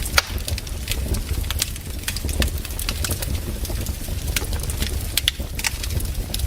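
Wood fire crackling in a fireplace: irregular sharp pops and snaps over a low steady rumble, one louder pop just after the start.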